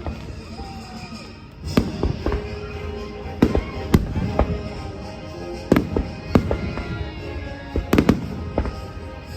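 Fireworks going off: a string of sharp bangs at irregular intervals, beginning about two seconds in, some coming in quick pairs.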